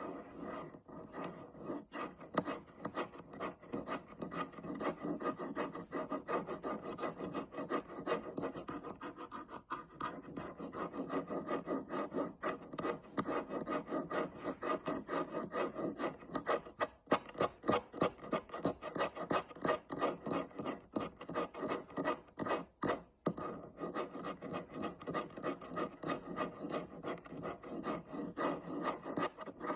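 Fingernails rasping and rubbing in quick, repeated strokes, about four a second, keeping up an even scratchy rhythm.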